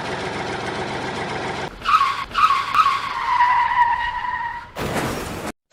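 A steady mechanical running noise like a small engine, cut off abruptly by a high squeal. The squeal starts three times in quick succession and slides slowly down in pitch, then gives way near the end to a short whoosh.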